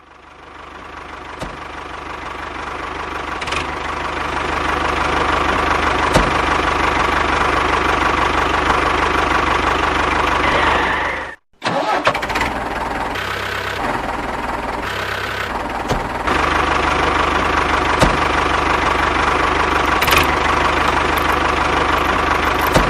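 Small motor of a DIY mini tractor running steadily, building up over the first few seconds, with a brief drop-out about eleven seconds in.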